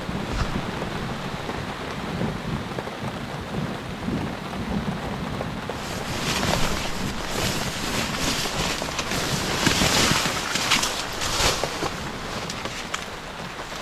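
Heavy rain in a thunderstorm, with a low rumble underneath. About six seconds in the rain swells into a dense rush of drops, then eases near the end.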